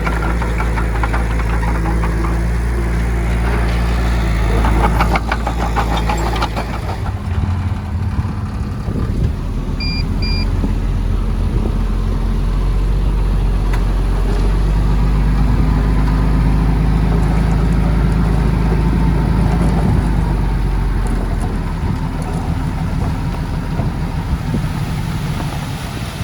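Heavy diesel engine of earthmoving machinery running steadily, its note changing about seven seconds in. Two short high beeps sound about ten seconds in.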